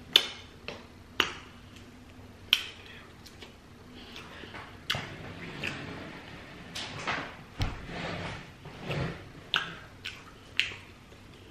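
Close-miked eating: chewing with sharp, wet mouth clicks and lip smacks, one every second or so.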